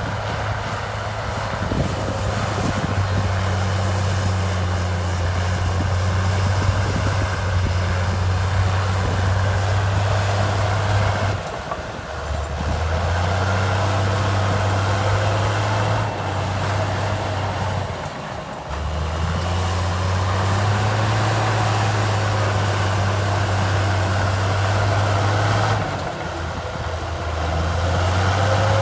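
Heavy diesel engine of an earthmoving machine running under work load. Its steady low note dips and changes pitch three times, as the load or throttle changes.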